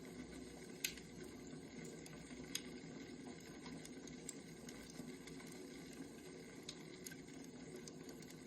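Firewood burning: a steady low rush with scattered sharp crackles and pops. The loudest pop comes about a second in.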